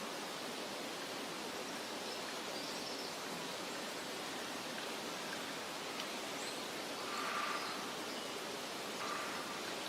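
Forest ambience: a steady rushing hiss of the outdoors with a few faint, short bird chirps. A brief louder rustle swells up about seven and a half seconds in.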